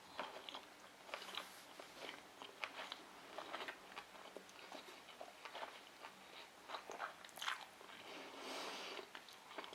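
Close-miked chewing of a sushi roll: a quiet run of wet mouth clicks and soft crunches.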